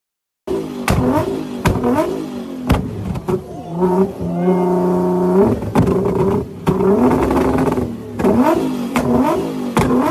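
Nissan GT-R's twin-turbocharged engine being revved hard in quick blips, with repeated sharp exhaust pops and bangs as it spits flames. After a brief silence at the start it revs and crackles, holds a steady high rev for about a second and a half around the middle, then drops and goes back to quick revs and pops.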